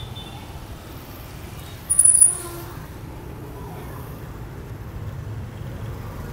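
Steady low rumble of street traffic, with one brief, loud, high-pitched squeal about two seconds in.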